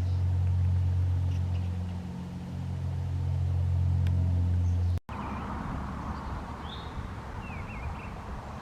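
A low, steady engine hum for about five seconds that stops abruptly. After it come quieter outdoor surroundings with a few short bird chirps.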